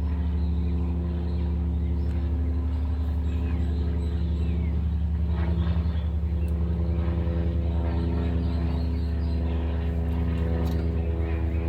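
2008 GMC Yukon's V8 engine idling steadily with a slight regular pulsing; the engine has a misfire on cylinder 8 that is being diagnosed.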